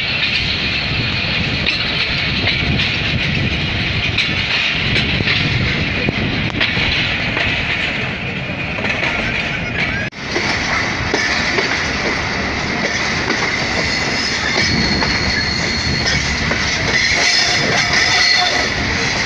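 A train running along the track, its wheels and carriages rattling with a steady clickety-clack. A brief break comes about ten seconds in, and after it a steady high-pitched tone runs over the rattle.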